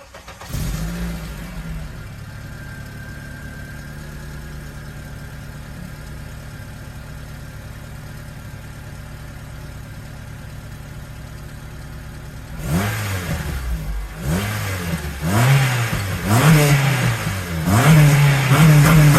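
Second-generation Honda CR-V four-cylinder engine through an aftermarket PLM header with the catalytic converters removed: it starts with a brief flare, settles to a steady idle, then about two-thirds through is revved in a series of quick throttle blips, each rising and falling in pitch.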